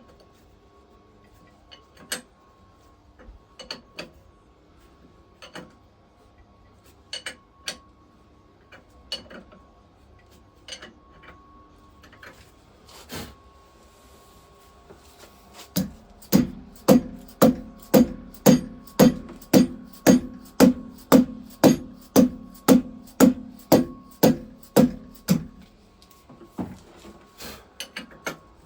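Spanner work tightening cylinder head nuts: scattered metallic clicks and taps, then, just past halfway, a run of evenly spaced ringing clicks about three a second that lasts about ten seconds.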